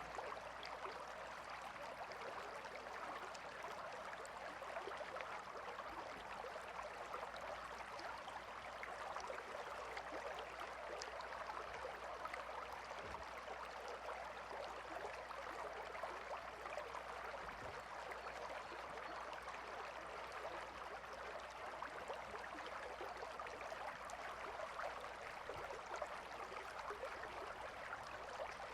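Calm river flowing, a steady, unbroken rush of water with fine trickling detail.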